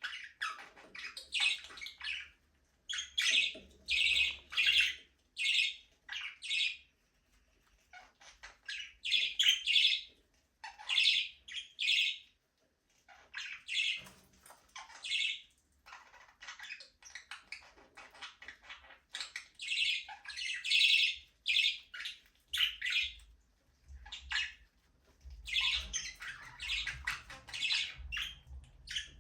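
Budgerigars chirping and squawking in quick bursts of chatter, each burst a rapid run of short chirps, with brief pauses between them.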